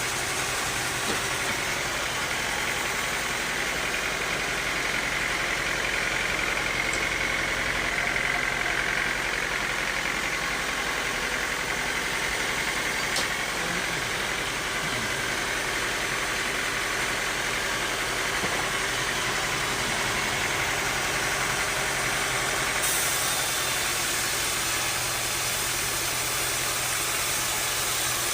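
Bandsaw sawmill running steadily, a motor drone under a hiss; the hiss turns brighter near the end.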